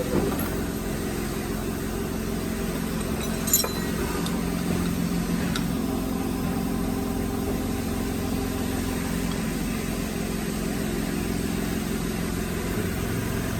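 Steady hum of workshop machinery running in the background, a drone with several held tones. A single sharp metallic click comes about three and a half seconds in.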